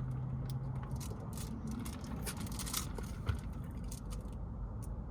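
Steady low rumble inside a car, with a brief low hum in the first second and scattered light crackles and scrapes over the first three seconds or so.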